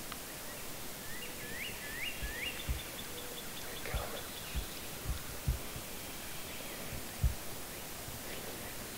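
Small birds calling in an outdoor hush: a few quick rising chirps, then a fast run of ticking notes. Several short, soft low thumps come at intervals, the loudest near the end.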